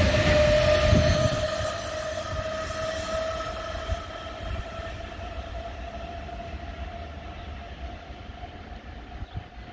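Berlin S-Bahn electric train moving away, its traction motors whining in one steady tone that rises slowly in pitch as it accelerates. The rail rumble and the whine fade steadily as it recedes, the rumble dropping off about a second and a half in.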